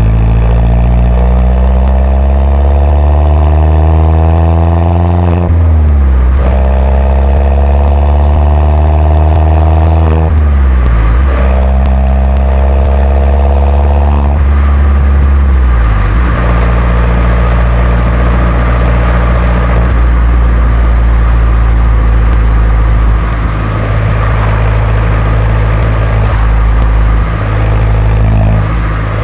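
Mini John Cooper Works R57's turbocharged 1.6-litre four-cylinder on its stock exhaust, driven under power. Engine speed climbs and drops sharply three times, as in gear changes or lifting off, then holds steady from about halfway through.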